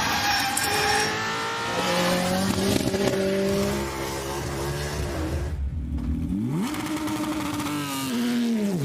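Race car engine being driven hard. Its note climbs and falls back as it changes gear, with a sharp rising rev about six seconds in and a falling note near the end.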